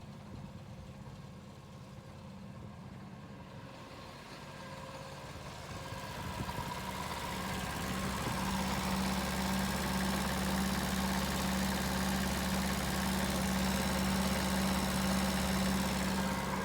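Two-cylinder diesel engine of a Yanmar C12R-A crawler carrier dumper running. It grows louder from about four seconds in, then holds a steady, heavier note.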